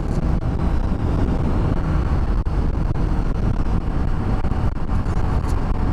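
Steady wind rush and road noise on the camera microphone while a 2007 Honda CBR600RR is ridden at motorway speed, the bike's running mixed into the rush.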